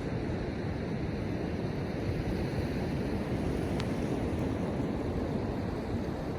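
Ocean surf washing steadily on a beach, with wind rumbling on the microphone. A faint tick sounds about four seconds in.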